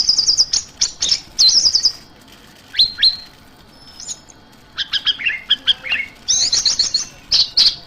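Orange-headed thrush calling in rapid bursts of high, sharp chirps. After a quieter gap with a couple of single notes, another burst of chirps follows about five seconds in.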